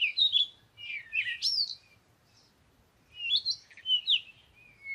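Birds chirping: quick high chirps sliding up and down, in two bursts with a short pause between them.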